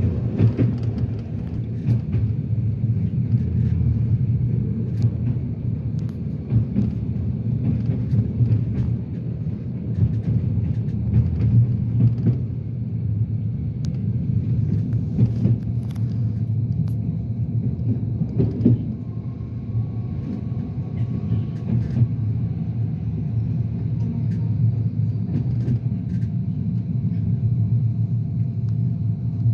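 Steady rumble of a moving passenger train, heard from inside the carriage, with occasional short knocks from the wheels on the track.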